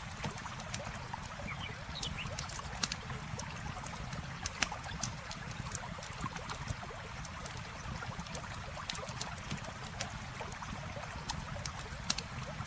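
Campfire crackling with irregular sharp pops and snaps, over the steady rush of flowing river water.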